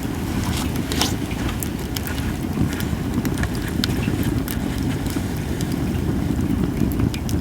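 Japanese cedar (sugi) campfire crackling, with sharp pops scattered irregularly throughout over a steady low rumble.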